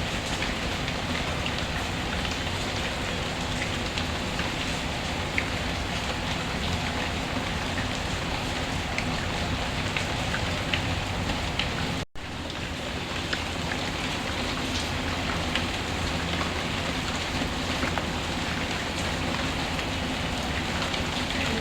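Steady rain, a dense even patter, mixed with sparse small crackles from a fireplace. The whole sound cuts out for an instant about halfway through, then resumes.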